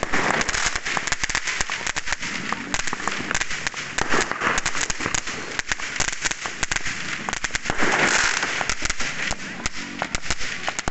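Fireworks going off in a dense, irregular barrage of crackling bangs, with louder swells about four and eight seconds in.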